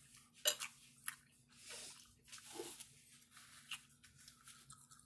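A person chewing a mouthful of spaghetti with meat sauce close to the microphone: soft wet mouth sounds with scattered small clicks and smacks, the sharpest about half a second in.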